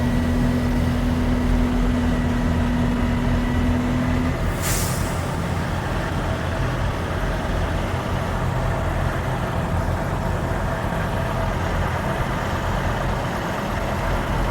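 Truck engine and road noise running steadily. A steady hum stops about four seconds in, followed by a short sharp hiss of air from the truck's air-brake system.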